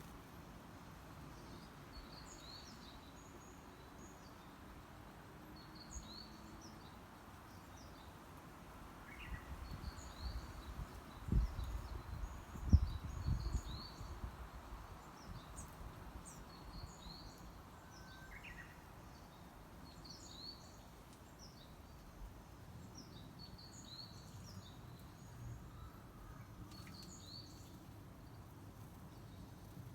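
Small wild birds chirping, short high calls repeated in groups throughout over a low outdoor background. About midway comes a cluster of low thumps and rumbling, the loudest sounds here.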